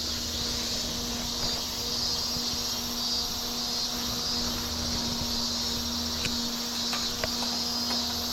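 Insects chirring steadily in a high, even band, over a steady low hum, with a few faint ticks near the end.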